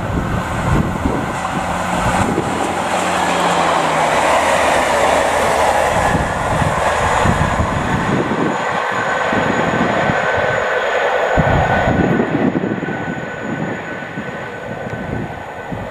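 GWR Class 150 diesel multiple units running on the line, the underfloor diesel engines and wheels on rail giving a steady loud rush. A thin high steady tone runs through the middle, and wind buffets the microphone with irregular low gusts.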